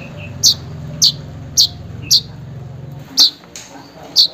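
Manyar weaver bird calling: short, sharp, high chirps repeated about twice a second, six in all. This is the call to a rival or mate. A low drone sits underneath for the first three seconds.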